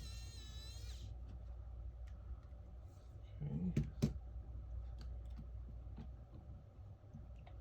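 Small clicks and taps of tools and parts being handled on a phone during disassembly, with the loudest few clicks a little over halfway through and scattered faint ticks after. A whining tone cuts off about a second in, over a steady low hum.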